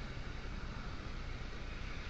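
Steady riding noise from a moving motorbike: wind rushing over the microphone with a low rumble from the engine and road underneath.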